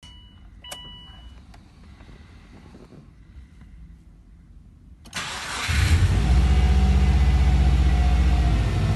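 Subaru Forester SG's EJ205 flat-four engine cranking and catching about five seconds in, then idling steadily, settling slightly quieter near the end. A short electronic beep sounds near the start, before the engine starts.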